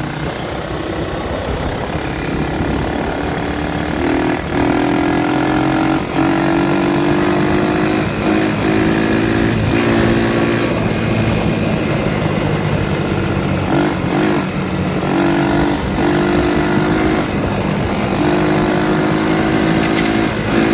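Four-wheeler engine running under throttle while riding. Its steady pitch creeps up slightly and drops out briefly several times as the throttle is eased and reopened.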